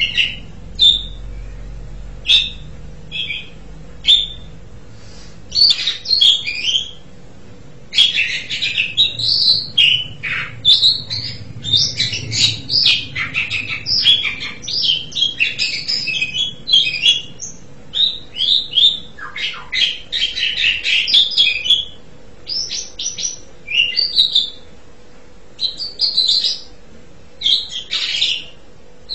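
Asian pied starling (jalak suren) singing: a varied string of whistles, chatters and squawks, scattered at first, then a dense run through the middle, then scattered again.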